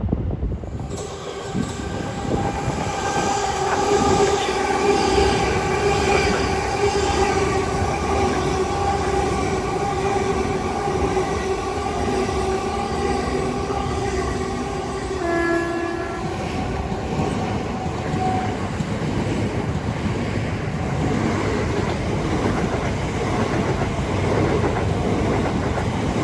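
Electric multiple-unit train running through the station: a steady multi-note whine over the rumble and clatter of wheels on rail, which fades out about two-thirds of the way in while the rumble of the train carries on.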